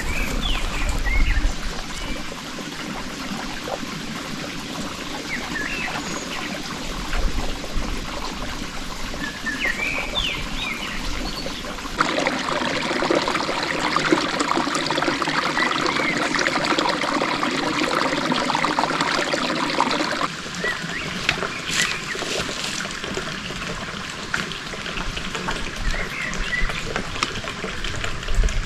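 Water trickling steadily, with a louder stretch of water noise that starts and stops abruptly partway through. Short bird chirps come now and then.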